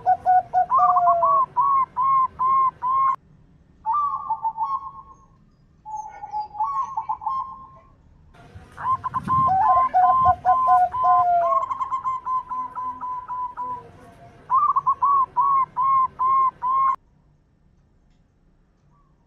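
Zebra doves (perkutut) cooing: quick runs of short, rounded notes, with two series at different pitches overlapping. The bursts stop and start abruptly, and the calling falls silent about two seconds before the end.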